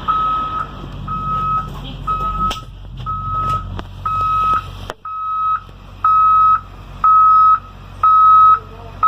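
School bus backup alarm beeping steadily about once a second while the bus reverses, over a low rumble. About halfway through the rumble drops away and the beeps sound louder.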